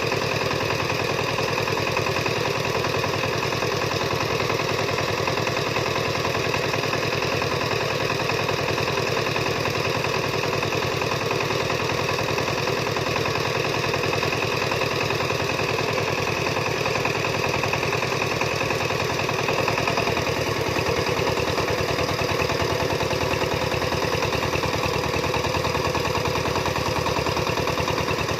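A farm engine running steadily at an even speed, with a fast, regular chugging.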